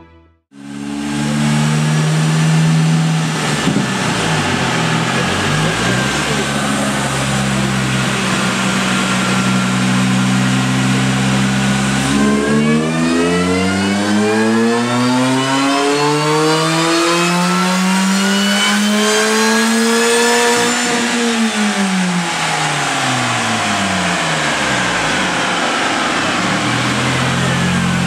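Supercharged 1.6-litre four-cylinder of an R53 MINI Cooper S, with aftermarket header and cat-back exhaust, running under load on a chassis dyno: it holds a steady speed for about twelve seconds, then makes a full-throttle pull, the engine note and a high supercharger whine rising together for about eight seconds before the revs drop away as it coasts down.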